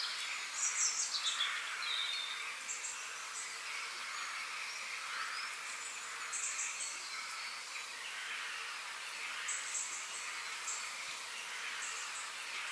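Birds singing over a steady outdoor hiss: short bursts of high, rapid chirps come again and again, with a few falling notes about a second in.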